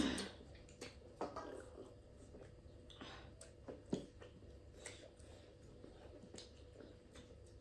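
Close-miked eating sounds from a duck curry meal: chewing with wet smacks and irregular short clicks, and a louder burst right at the start.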